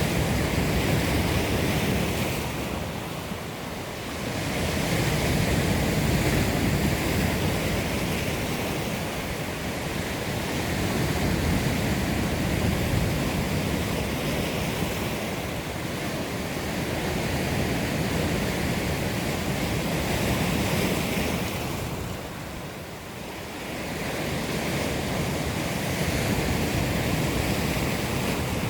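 Heavy Black Sea surf: waves breaking and washing ashore in a continuous rush that swells and eases every few seconds, dipping briefly twice.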